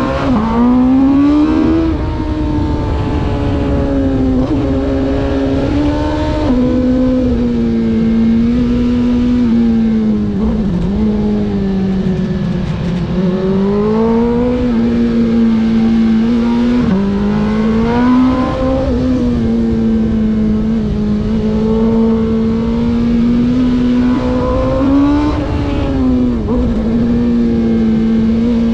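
Racing vehicle's engine heard from onboard, running hard through a race course. Its pitch climbs under acceleration and drops back as it lifts and brakes, over and over, with the lowest dips about ten seconds in and again near seventeen seconds.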